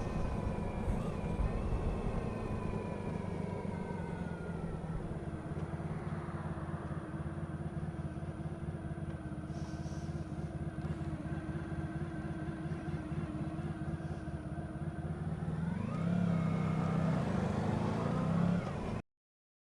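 Honda ST1100 Pan European's V4 engine under way: its note falls as it slows over the first few seconds, runs steadily, then rises as it picks up speed near the end. The sound cuts off suddenly just before the end.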